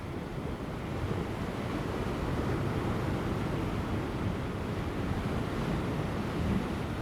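Large ocean waves breaking on offshore rocks, a continuous wash of surf that grows a little louder about a second in, with light wind.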